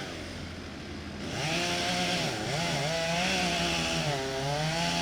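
Chainsaw engine running, its pitch wavering up and down as the throttle changes; it grows louder about a second in.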